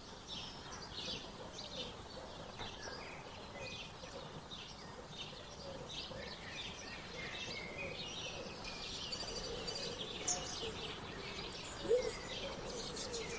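Small songbirds chirping and twittering continuously, many short high notes overlapping, with some lower calls and a couple of louder notes near the end.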